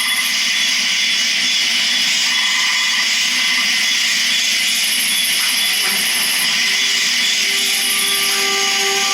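Loud, steady mechanical whirring noise from a film soundtrack played through small speakers, thin and hissy with almost no bass.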